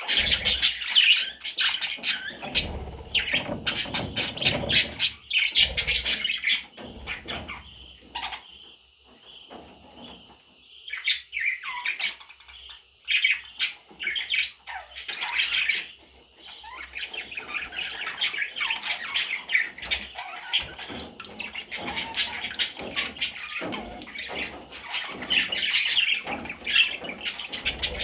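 Budgerigar chicks chattering and squawking almost without pause, with many sharp little clicks mixed in; the calls ease off for a few seconds about nine seconds in, then resume.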